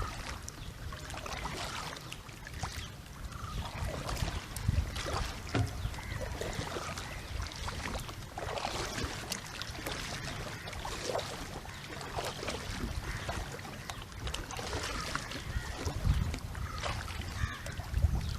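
Water splashing and burbling against a PVC pipe catamaran kayak moving on a river, in irregular short splashes.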